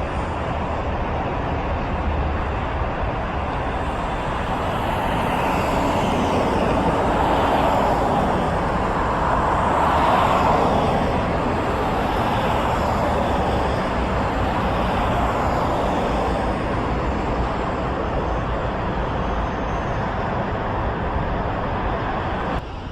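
Steady traffic noise, with a passing vehicle that swells and fades, loudest about ten seconds in.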